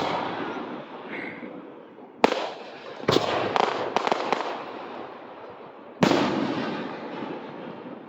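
Aerial fireworks exploding overhead: a boom about two seconds in, a quick run of four sharper reports a second later, and another big boom about six seconds in. Each blast trails off in a long rumbling echo.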